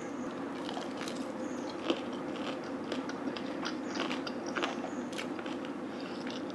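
A person chewing a piece of crispy deep-fried chicken: irregular crunches of the fried coating over a steady low hum.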